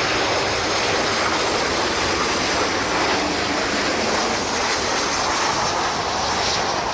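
Airplane engine sound effect: a steady, even aircraft engine drone with no change in pitch or level.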